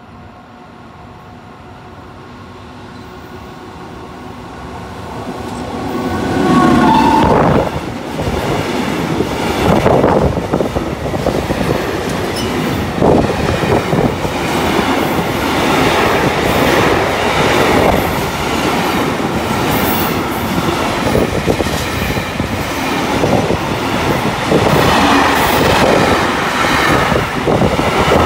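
An intermodal freight train hauled by an electric locomotive approaches with a steady hum that grows louder. The locomotive passes close about six to seven seconds in and its tone drops in pitch as it goes. The container wagons then run past with loud, steady wheel-on-rail rumble and repeated clatter.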